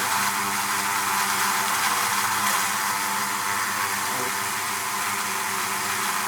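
Honey bees humming at a hive: a steady, dense buzz of many bees at once.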